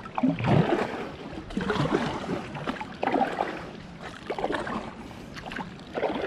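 Kayak paddle strokes splashing and swishing through the water, about one stroke every second and a half.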